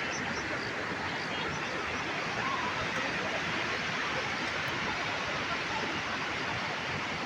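Steady rushing noise of moving water, even and unbroken.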